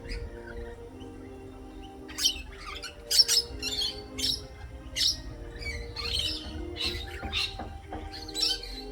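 Garden birds calling over soft background music with long held notes. From about two seconds in, short, harsh chirping calls come repeatedly, one or two a second.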